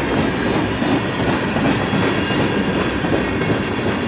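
Canadian National freight cars rolling past on the rails: a steady noise of steel wheels on track, with some clickety-clack from the rail joints.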